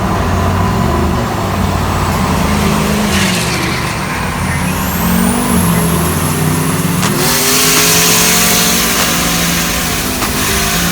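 Car engines revving and accelerating past, their pitch swinging up and down. A high whine rises from about four seconds in and cuts off sharply about three seconds later. After that a steady hiss sits under a steadier engine note.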